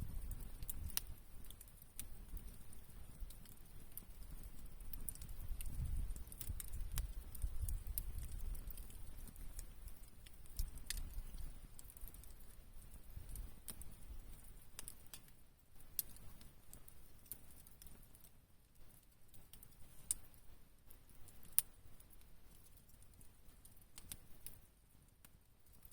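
Wood campfire crackling with sharp, irregular pops, over a low rumble that fades out after about ten seconds.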